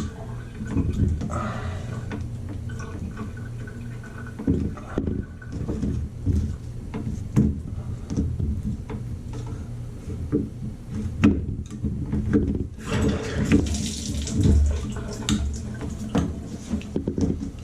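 Water running at a Moen tub and shower faucet whose supply has not yet been shut off, a steady rushing wash with scattered clicks and knocks of handling over it.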